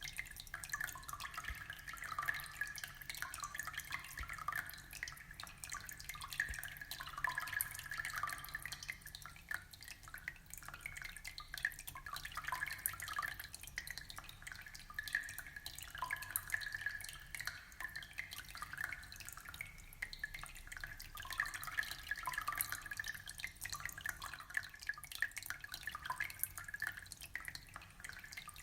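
Aquarium water trickling and dripping: a continuous, irregular patter of small plinks and bubbling drops.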